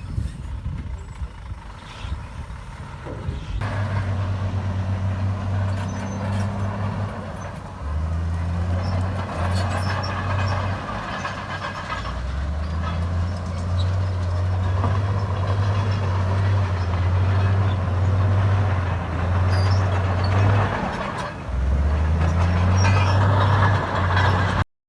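Heavy diesel engine of earthmoving machinery running, coming in strongly about four seconds in, its note stepping up and down as the throttle or load changes. The sound cuts off suddenly near the end.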